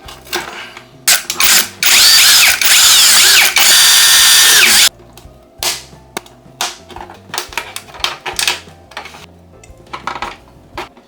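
A small electric power tool runs for about three seconds, its whine wavering in pitch, then stops abruptly; light clicks and taps come before and after it.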